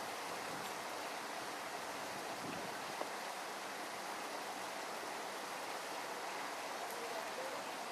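Steady rushing noise of flowing water, even throughout, with a faint click about three seconds in.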